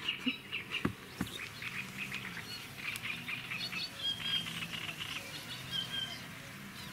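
Small birds chirping in quick runs, with a few clear held whistled notes, over a faint low hum; two soft knocks about a second in.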